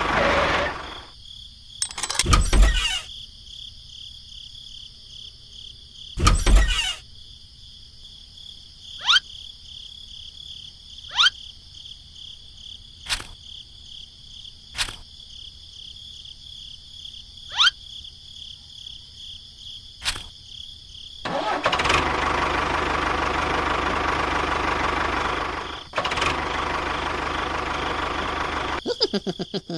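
Engine-like running noise. It is broken by two heavy thumps in the first seven seconds and a string of short sharp clicks. A louder, steady stretch of running noise fills the last third.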